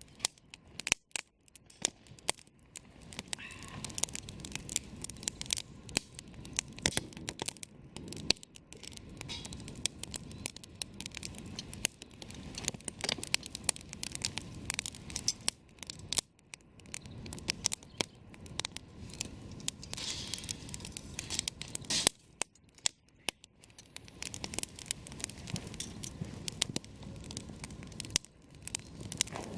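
Campfire burning, with wood crackling and snapping in sharp irregular pops over a low rushing of flame.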